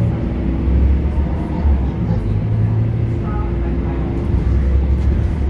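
Scania K230UB bus's diesel engine running under way, heard from inside the bus as a loud, steady low drone.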